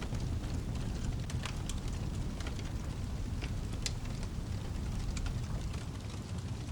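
Fireplace crackling, with scattered sharp pops, over a steady low rumble and the hiss of rain.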